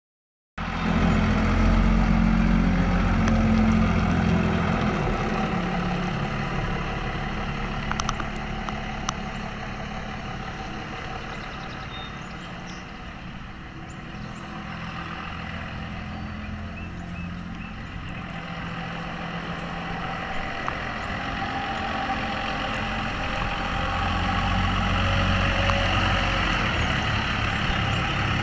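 1994 Dodge 3500 truck's engine idling steadily, louder at first, fading somewhat in the middle and growing louder again near the end, with a couple of light clicks about a third of the way in.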